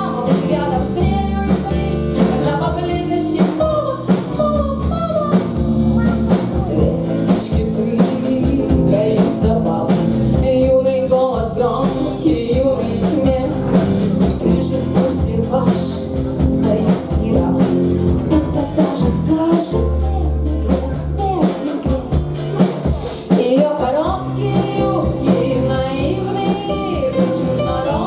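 Small rock band playing live: a singer over drum kit and guitar, loud and steady throughout.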